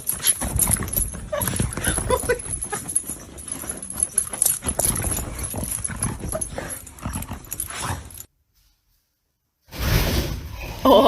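A dog's noises over busy knocking and scuffling, which cut off suddenly about eight seconds in; after a second or so of dead silence, a new burst of noise starts.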